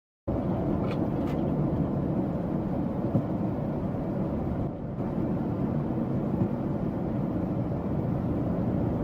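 Steady rumble of a car driving, road and engine noise picked up by a dashcam, with no sudden events standing out.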